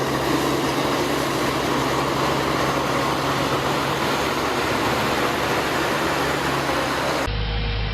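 Heavy farm machinery running steadily: a dense mechanical noise over a low, even engine hum. Near the end it cuts abruptly to a different, deeper steady engine hum.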